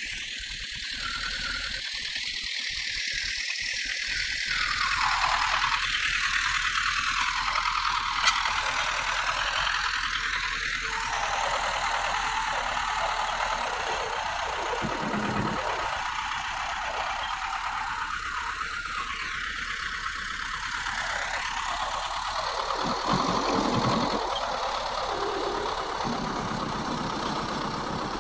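Bulldozer working: diesel engine running with the rattle of the machine, a steady noisy rush that slowly swells and falls in pitch a few times.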